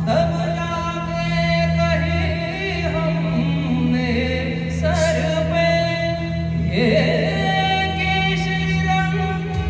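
A song: long held, wavering sung notes over a steady low instrumental drone.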